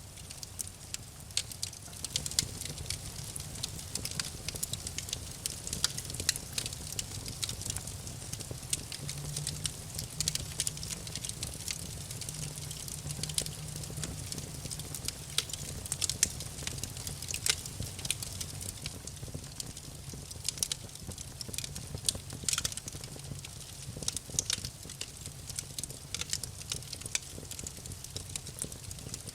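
Wood fire crackling in a fireplace: irregular sharp pops and snaps of various strengths, over a steady low rumble.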